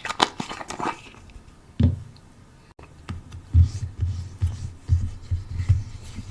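Close-miked ASMR trigger sounds: about a second of crisp scratching and crinkling, a single thump, then a run of soft, dull low thumps.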